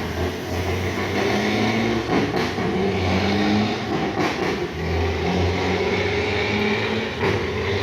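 Heavy truck's diesel engine running under load as it pulls across the bridge, its low engine note swelling and easing, with a few brief knocks.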